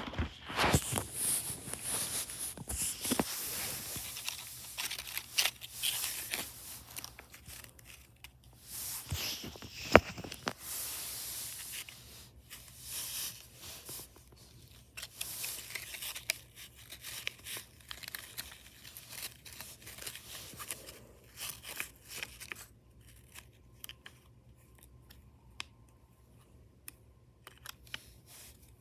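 Irregular rustling, crinkling and tearing noises with many short clicks, busy at first and thinning to sparse faint clicks after about 23 seconds.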